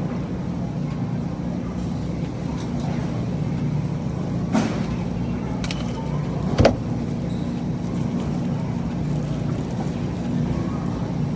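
A steady low hum with two brief knocks, one about halfway through and a sharper, louder one a couple of seconds later.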